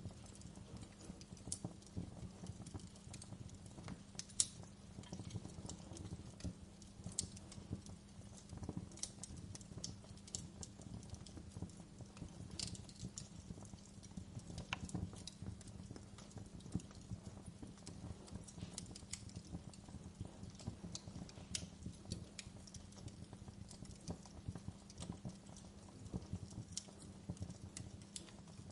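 Wood fire crackling in a fireplace: irregular, sharp pops and snaps scattered unevenly, over a soft, low, steady background with a faint hum.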